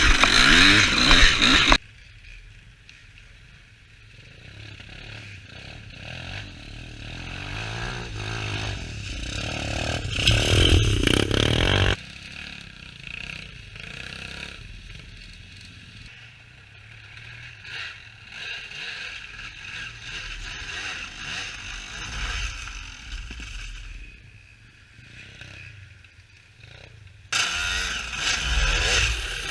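Small engine running in several cut-together clips: loud at first, suddenly quieter about two seconds in, building up, suddenly quieter again about twelve seconds in, then loud again near the end.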